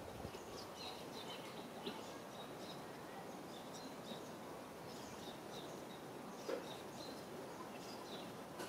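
Small birds chirping faintly in short, scattered high notes over a steady outdoor background hiss, with one soft knock about two-thirds of the way through.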